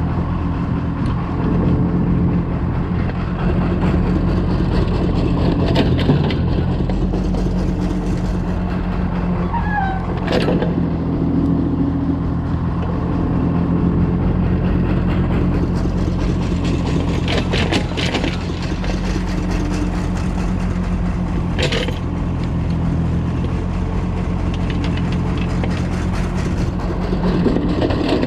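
Kobelco excavator's diesel engine running steadily as the machine digs and loads soil, with a few short sharp clanks along the way.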